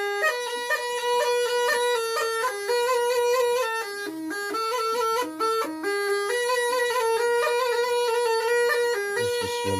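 Snake charmer's pipe played continuously: a melody of quick note changes over a held drone.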